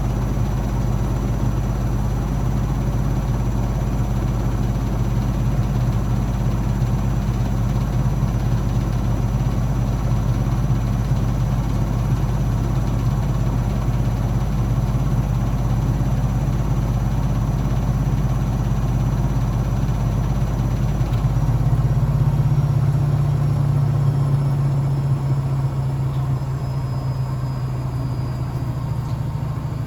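Blomberg WAF 7442 SL washing machine running, with a steady motor hum whose pitch shifts about 21 seconds in as the drum speed changes.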